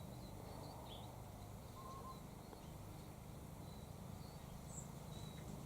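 Faint outdoor ambience with a few brief, soft bird chirps scattered through it over a low steady hum.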